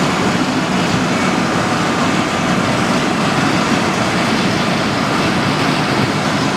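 Steady, loud, even noise of waste tyre oil plant machinery running, with no distinct beats or changes.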